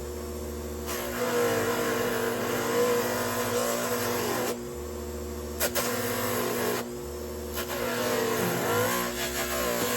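An electric power tool motor runs steadily. Three times it is worked hard against metal in louder, rasping stretches, and its pitch sags slightly under the load each time.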